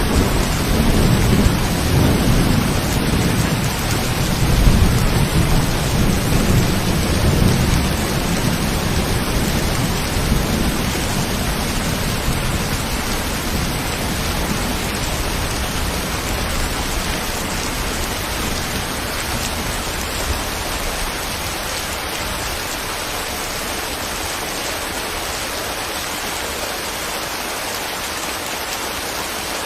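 Steady rain falling, with a low rumble of thunder through the first half that dies away about twelve seconds in.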